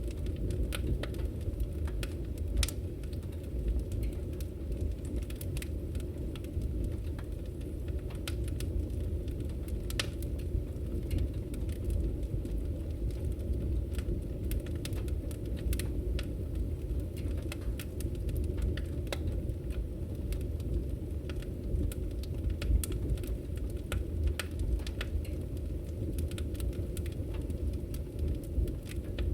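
Wood fire crackling in a fireplace: frequent irregular sharp snaps and pops over a steady low rumble of the burning fire.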